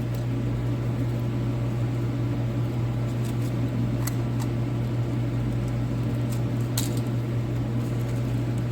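Overhead heater running with a steady low hum and fan noise. A few faint clicks come about four seconds in and again near the end.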